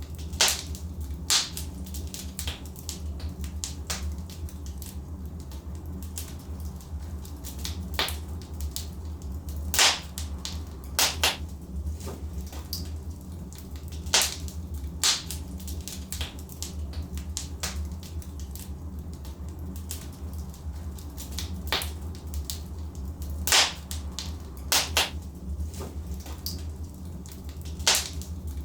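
Wood fire burning in a fireplace: irregular sharp crackles and pops from the burning logs, a few of them loud, over a steady low rumble of the fire.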